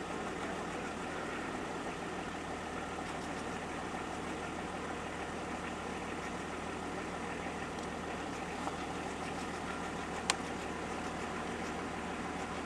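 Car engine running steadily with a low hum, along with the general noise of a vehicle moving or waiting. A single sharp click about ten seconds in.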